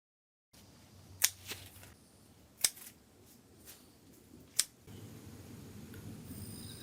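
Garden shears snipping: three sharp snips roughly one and a half to two seconds apart, each followed by a softer click as the blades reopen. Faint insects buzz near the end.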